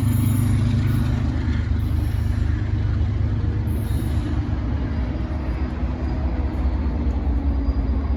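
Train locomotive running with a steady low rumble, with brief high hisses about two and four seconds in.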